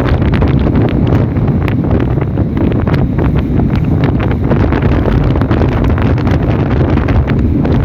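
Strong wind buffeting the microphone in a rainstorm: a loud, steady, rumbling rush with many small crackles through it.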